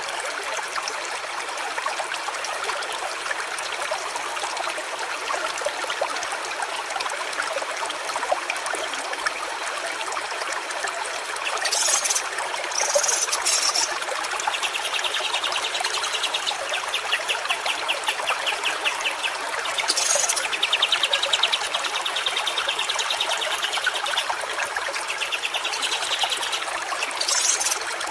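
A stream running and trickling steadily. From about halfway, short harsh calls and long, rapid high-pitched pulsing trills join in several times.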